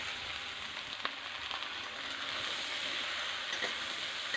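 Spice-coated okra pieces sizzling steadily in hot mustard oil in a kadhai, just added to the oil for frying on high heat, with a few faint clicks.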